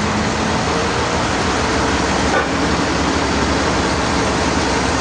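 Sawmill machinery running steadily with a low rumble.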